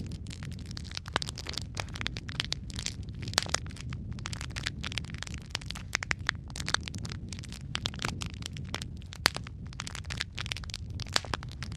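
Logs burning in a fireplace, crackling and popping with many irregular sharp snaps over a low steady rumble of the flames.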